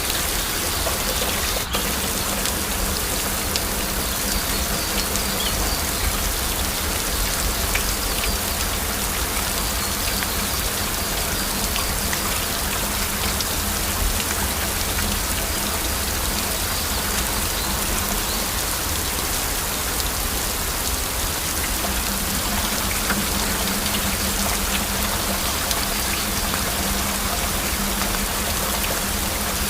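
Heavy rain falling steadily, a dense even hiss of water with many individual drops ticking on a surface.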